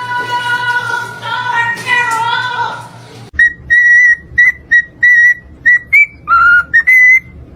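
A parrot whistling a tune: a run of short, clear whistled notes, mostly on one pitch with one lower, longer note near the end, over quiet background music. The first three seconds hold layered, held musical tones before an abrupt change to the whistling.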